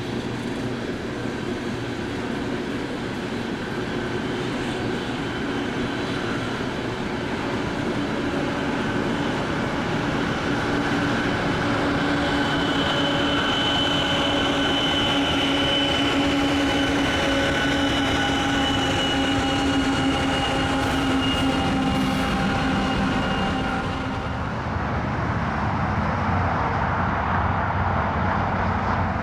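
BNSF freight train rolling past, with a steady rumble of steel wheels on the rails. Several steady ringing tones sound through the middle stretch, and the sound shifts near the end.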